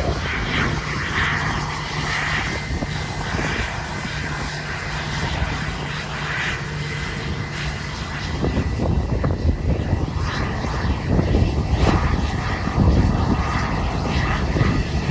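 Jet aircraft engines running: a steady thin whine over a low rumble that grows louder in the last few seconds.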